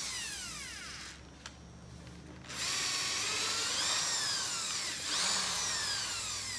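Power drill running in two bursts, its high motor whine falling in pitch as it slows; the first burst stops about a second in and the second starts again after a short pause.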